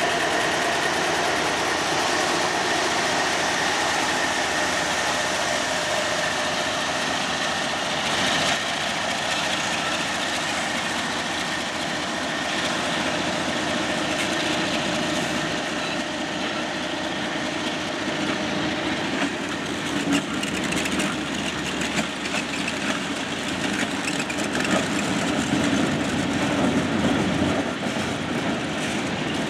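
Kansas City Southern de México diesel-electric freight locomotives and cars passing close by, a steady heavy rumble of engines and steel wheels on rail. In the second half, short sharper knocks break into the rumble.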